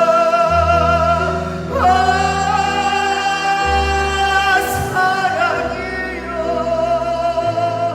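Male trot singer holding long notes with vibrato, sliding up to a higher held note about two seconds in, over backing music with a moving bass line.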